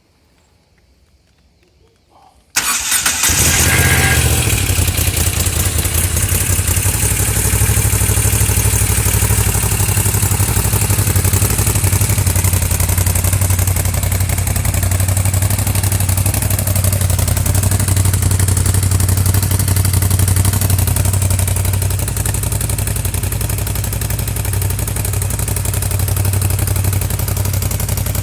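Moto Guzzi V7 III's air-cooled V-twin, breathing through Busso aftermarket silencers, starts up abruptly about two and a half seconds in, then idles steadily.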